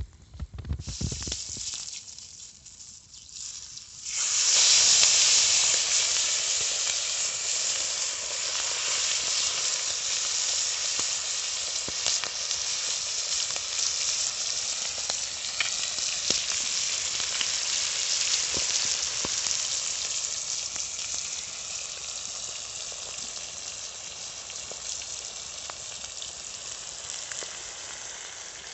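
Food frying on a hot disc pan over a campfire: a loud sizzle starts suddenly about four seconds in and slowly fades. A few knocks come before it.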